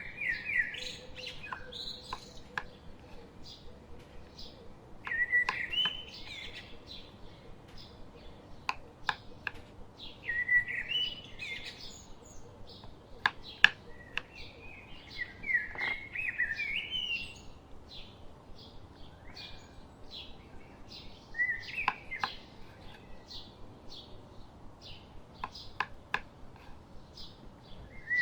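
A songbird singing a short warbling phrase about every five to six seconds, with quick sharp ticks between the phrases.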